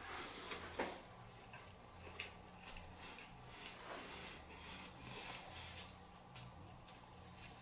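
Close-up chewing and eating sounds: irregular wet mouth smacks and small clicks, over a faint steady electrical hum.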